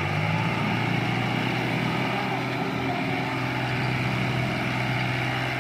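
John Deere 5310's three-cylinder diesel engine running steadily under load, hauling a loaded sugarcane trolley.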